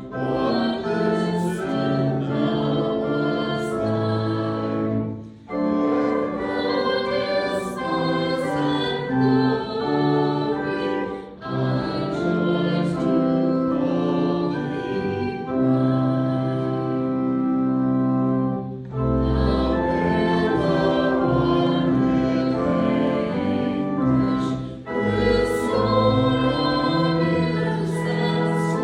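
A hymn sung by a congregation or choir with instrumental accompaniment, in long held phrases broken by short pauses.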